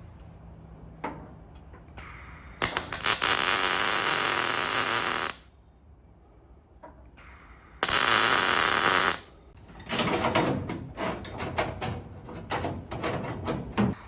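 Welder welding the steel parcel shelf panel into the car body: two steady hissing runs of a few seconds each, then a more broken, irregular run of short welds crackling towards the end.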